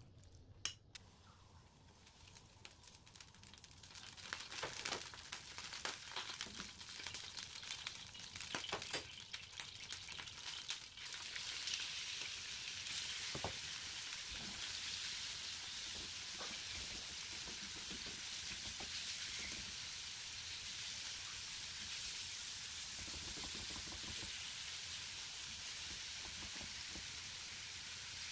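Marinated chicken pieces sizzling in oil in a nonstick frying pan over a low gas flame, with a plastic spatula stirring them. The steady sizzle comes in about a third of the way through, after scattered clicks and scrapes.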